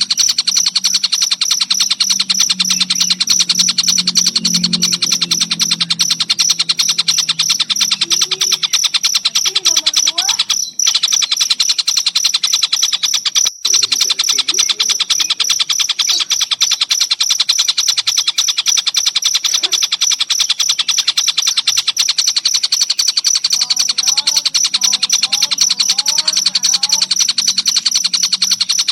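Cricket chirping in a fast, steady, unbroken pulse, the loudest sound throughout, with a tengkek buto bird giving scattered short rising and falling calls. The sound cuts out briefly twice, near 11 and 14 seconds.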